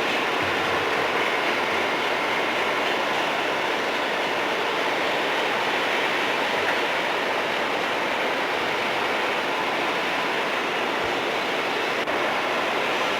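Steady rushing noise of a train's cars rolling past on the rails, with no horn or engine note standing out. A brief click about twelve seconds in.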